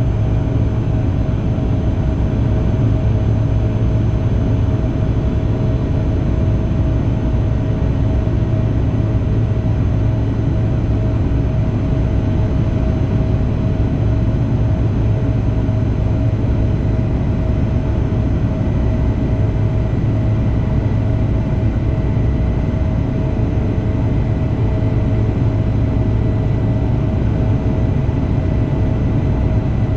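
Bombardier CRJ-200 regional jet's twin GE CF34 turbofans running steadily at high power, a loud, even drone with a few steady whining tones over it.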